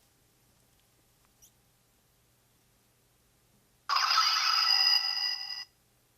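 A short electronic sound effect with several steady tones over a rasping texture, starting suddenly about four seconds in and cutting off abruptly under two seconds later.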